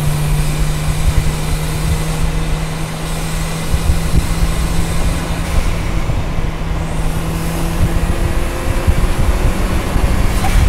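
Turbocharged Mazda Miata four-cylinder engine of an Exomotive Exocet cruising at a steady pitch, heard from the open cockpit over steady wind and road noise.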